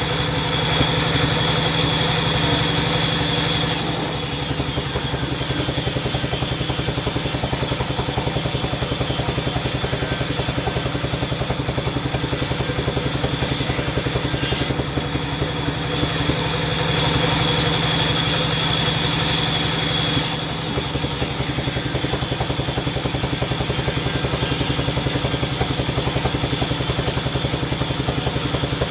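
Sawmill machinery running steadily with a constant low mechanical drone. A brighter hiss with a high ringing tone sets in at the start, fades about four seconds in, comes back around fifteen seconds, and holds from about twenty seconds on as the saw cuts through timber.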